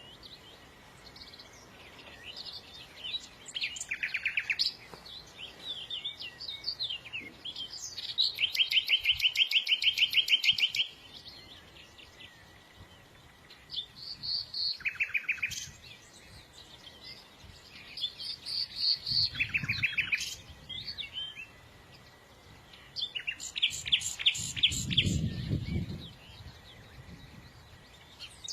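Songbird singing in repeated bouts of fast, high trills and chirps, each phrase a second or two long with short pauses between. A brief low rumble comes near the end.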